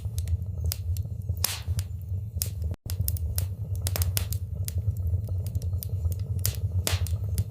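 Wood fire burning in a fireplace: irregular sharp crackles and pops over a steady low rumble of flames. The sound drops out for an instant about three seconds in.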